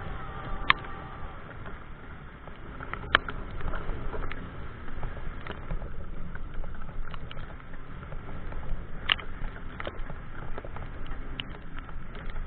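Pouring rain pattering steadily over a low rumble, with many small ticks and three loud sharp clicks, about a second in, about three seconds in and about nine seconds in.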